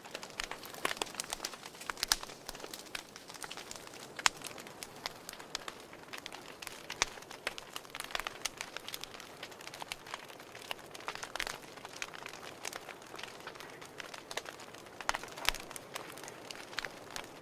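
Fire crackling: irregular snaps and pops, a few of them louder, over a soft steady hiss.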